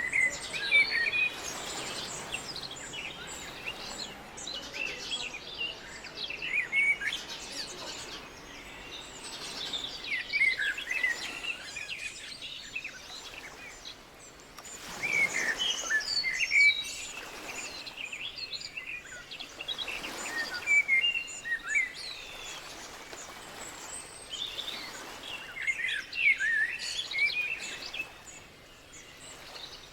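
Birds chirping in bouts of quick, high calls that come every four or five seconds.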